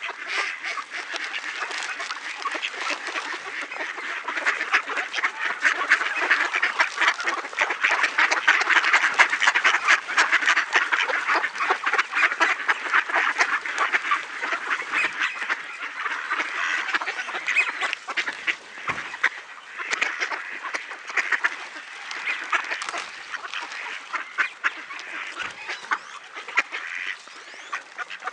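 A crowd of ducks quacking and chattering nonstop as they feed on scattered grain, loudest a few seconds in.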